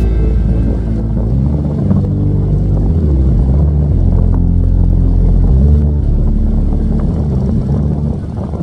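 Large passenger ship's engines running with a deep, steady drone whose pitch shifts a few times.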